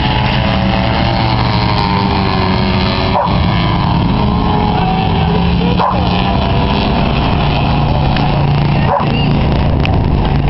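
Several race truck engines running hard at once during a short race, their pitches drifting up and down, with brief breaks in the sound about every three seconds.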